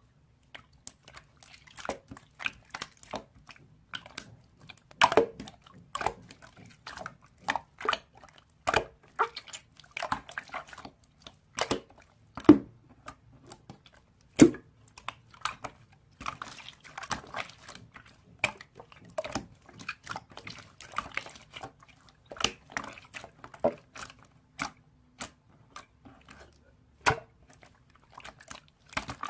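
Irregular sharp clicks and taps of small objects being handled, a few to several a second, with stretches of soft rustling.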